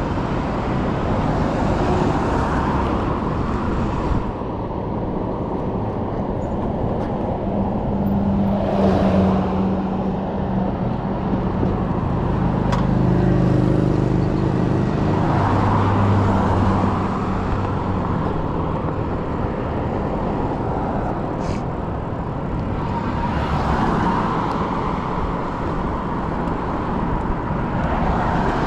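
Road traffic and wind rush on a moving bike's camera microphone. Partway through, a motor vehicle's engine runs close by for several seconds.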